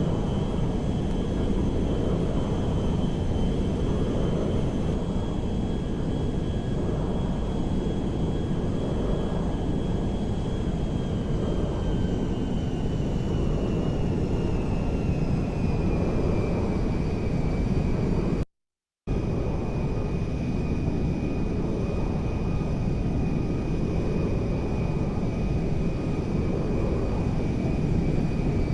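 Airplane noise: a steady, loud rumble with a high whine over it. The whine slowly drops in pitch from about ten to seventeen seconds in, then holds steady. The sound cuts out for a moment about two-thirds of the way through.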